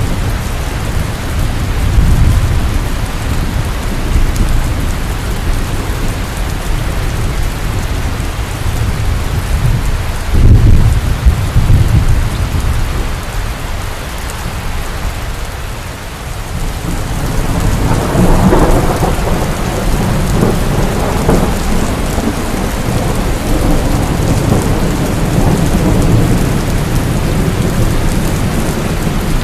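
Heavy rain falling steadily, with thunder rumbling through it: deep rolls swell about two seconds in and again about ten seconds in, and a longer, fuller roll builds past halfway and slowly fades.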